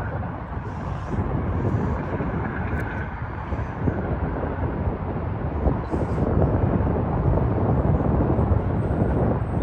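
Distant low rumble of a General Electric dual-mode diesel locomotive running down at the station. It is steady and grows a little louder about six seconds in.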